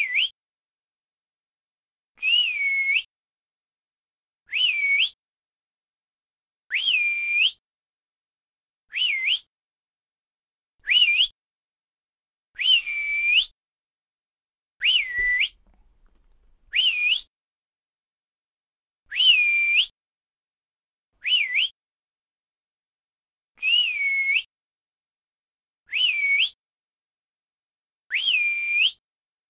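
A whistle calling over and over, one short note about every two seconds: each swoops up, dips, holds briefly and rises again at the end.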